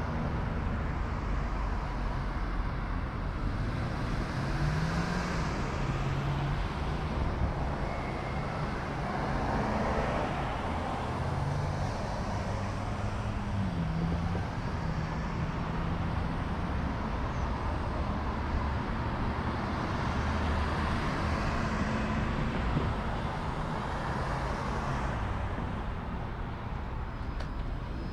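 Road traffic: car engines running past with their pitch shifting up and down, over a steady rush of road noise.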